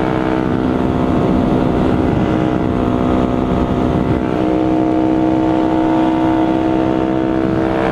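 Sport motorcycle engine and exhaust running at a steady cruising speed, with wind rush over the helmet mic; the rider thinks the exhaust has got louder.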